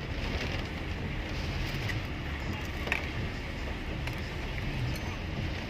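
Car engine and road noise heard from inside a moving taxi: a steady low rumble with a hiss above it and a sharp click about three seconds in.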